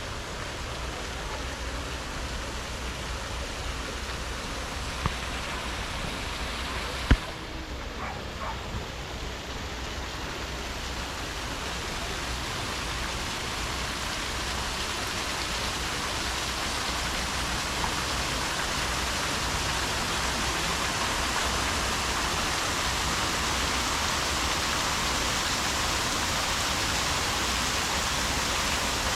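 Steady rush of falling or running water, growing a little louder through the second half, with a sharp knock about seven seconds in.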